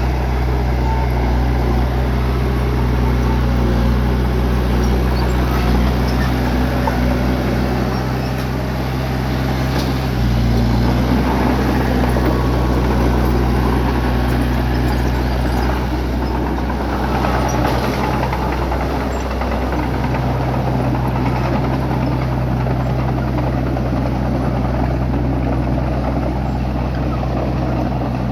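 Bulldozer's diesel engine running steadily under load, with a dense rough noise over it. The engine note shifts slightly about ten seconds in and again near twenty seconds.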